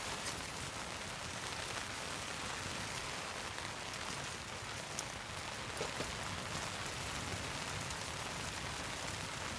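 Steady rain falling, an even patter with a few single drops ticking a little louder about halfway through.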